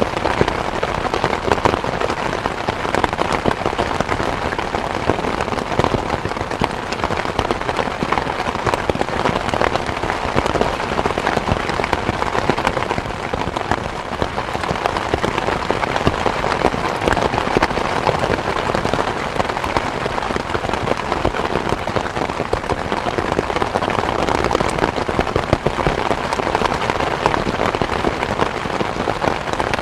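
Steady rain falling, a constant hiss made of many close individual drop impacts, without let-up.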